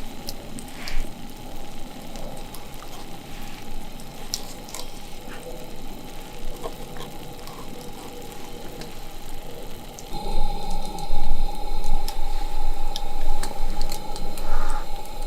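Food sizzling in a pan over a campfire, with scattered small crackles; it gets louder about ten seconds in.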